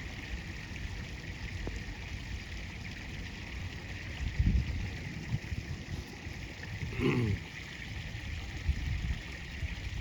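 River water flowing steadily past, with a few low thumps under it.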